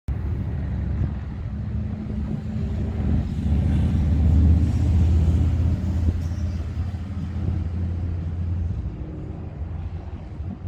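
A motor vehicle engine running with a steady low rumble. It grows louder toward the middle, then eases off near the end.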